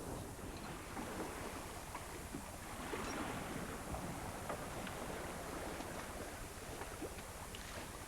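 Wind and sea aboard a sailing yacht under way: a steady rush of water and wind, with wind buffeting the microphone, swelling a little about three seconds in, and a few faint ticks.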